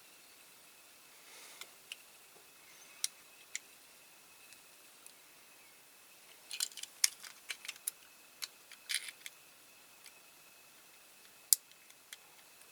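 Small sharp clicks and taps of a diecast toy car and its parts being handled and fitted, a few scattered at first, then a quick run of clicks about halfway through and a couple more near the end.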